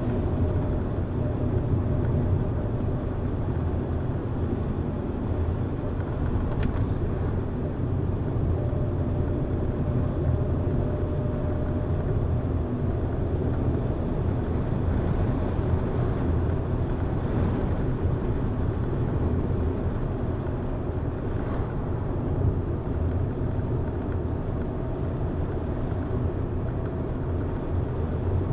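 A car driving along a road: steady low engine and tyre rumble, with a brief faint tick about six and a half seconds in.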